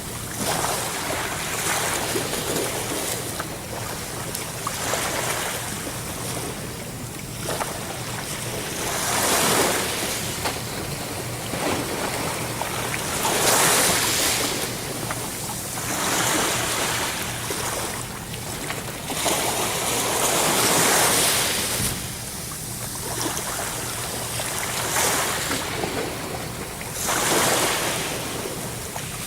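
Sea waves breaking and washing ashore, the surf swelling and falling back every few seconds.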